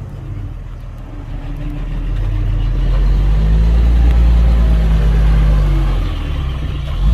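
A heavy diesel engine of an earthmoving machine runs. It builds in loudness and pitch over the first few seconds, holds for a couple of seconds, then eases off.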